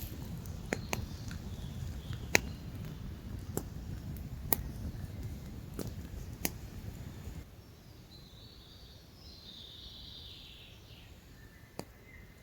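Outdoor ambience: a low rumble with scattered sharp clicks and snaps. About seven seconds in it drops abruptly to a quieter background with a bird chirping faintly, then one more click near the end.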